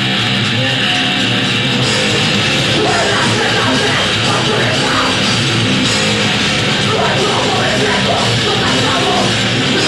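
Live rock band playing a song loudly in a heavy, punk-metal style, with a dense wall of electric instruments and drums.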